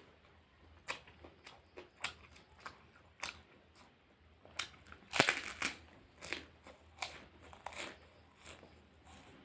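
A person chewing food close to the microphone: a string of short crunches and wet mouth clicks, the loudest cluster a little past five seconds in.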